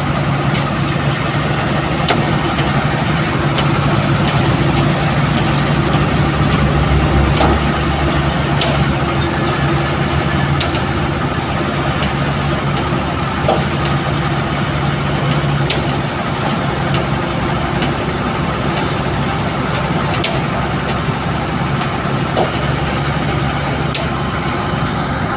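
A truck's engine running steadily, a constant low hum over road and traffic noise, with a few faint ticks.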